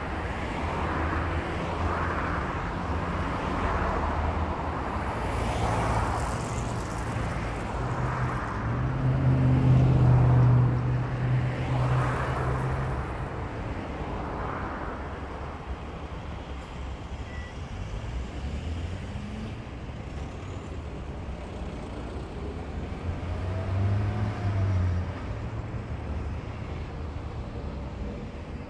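Road traffic passing one vehicle after another, each rising and fading as it goes by. A heavier vehicle's low engine drone is loudest about ten seconds in, with another swell near the end.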